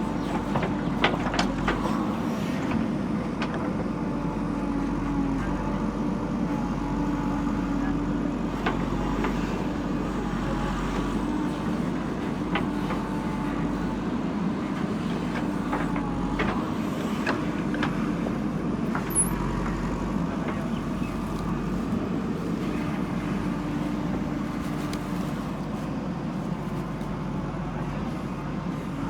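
Diesel engine of a JCB backhoe loader running steadily under work, with scattered sharp knocks.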